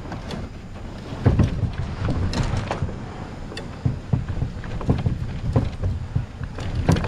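A kayak on the water, with wind rumbling on the microphone and irregular knocks and splashes from the hull and paddle.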